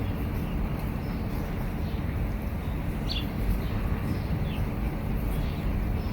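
Steady low outdoor rumble with a few short, faint high chirps from a bird, the clearest about three seconds in.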